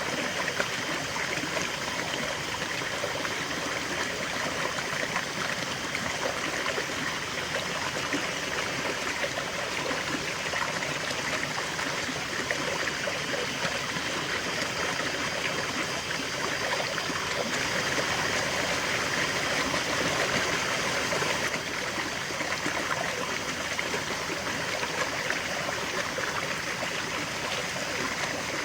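River water flowing steadily over stones, a continuous rushing and babbling of a stream with no change or pause.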